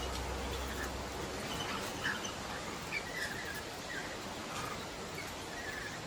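Short, scattered bird chirps, about half a dozen, over a steady background hiss.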